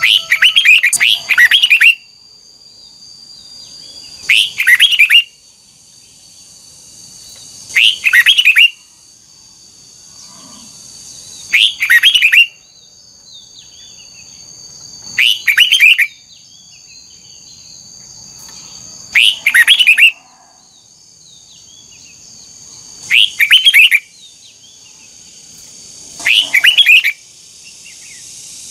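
Red-whiskered bulbul singing the same short phrase over and over, about every four seconds, each phrase a quick run of bright chirping notes about a second long.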